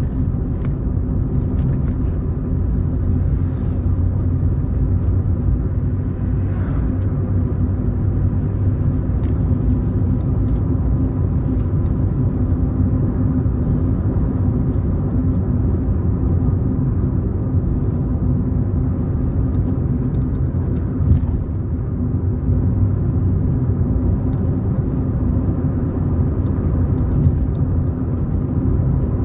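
A car being driven along a road: a steady low engine and tyre rumble.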